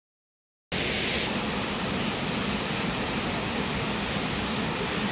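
Steady, even rushing noise that cuts in abruptly just under a second in, after silence.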